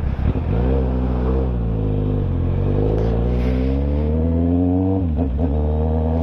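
Kawasaki Z800's inline-four engine heard from on board the moving motorcycle, rising steadily in pitch as it accelerates, then dipping briefly about five seconds in before holding steady.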